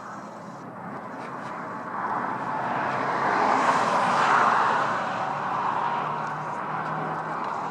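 Road traffic, with one vehicle going by: the tyre and engine noise swells to a peak about four seconds in and then fades, over a steady background of traffic.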